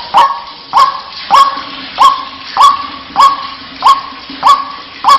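White-breasted waterhen calling: a loud, monotonous series of harsh 'wak' notes repeated evenly, about three every two seconds.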